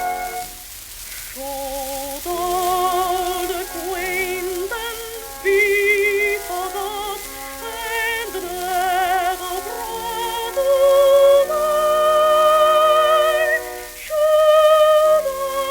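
Early acoustic-era shellac record of music: a solo melody of held notes with strong vibrato over a soft accompaniment, with the disc's surface hiss and crackle underneath.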